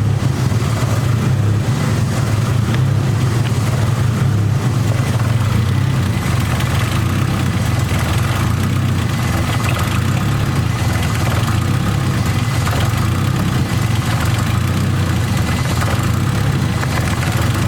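Nissan S14 engine idling steadily, with the exhaust leaking at the dump pipe, which the owner calls a crazy exhaust leak.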